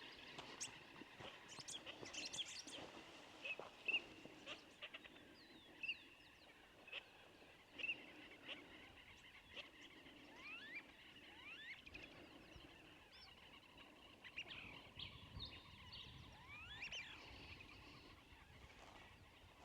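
Small birds chirping faintly, with scattered short chirps and quick rising whistles, several at a time.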